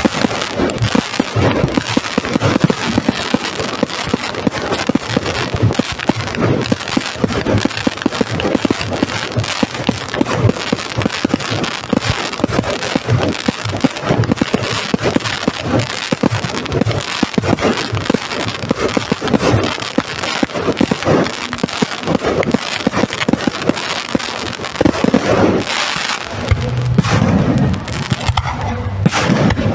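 Fireworks display: a dense, continuous barrage of bangs and crackling, with a lower rumble coming in near the end.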